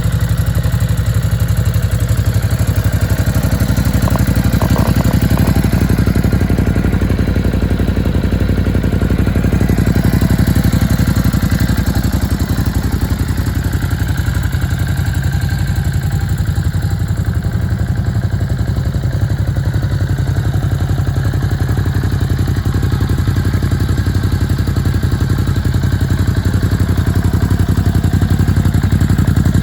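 Ducati Hypermotard 950 RVE's 937 cc L-twin engine idling steadily, with an even, rapid firing beat.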